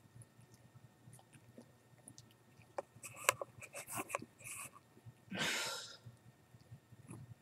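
Cat licking strawberry preserves out of a jar: soft wet clicks and taps of tongue and teeth against the jar, busiest in the middle. About five and a half seconds in comes one loud breath sound, lasting under a second.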